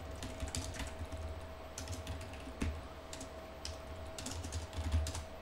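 Typing on a computer keyboard: irregular keystrokes, some in quick runs, over a faint steady hum.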